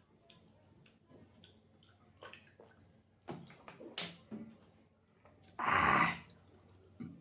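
Close-miked eating sounds from a person eating egg and rice: soft wet mouth clicks and chewing, a few sharper smacks, and one louder wet burst lasting under a second about six seconds in.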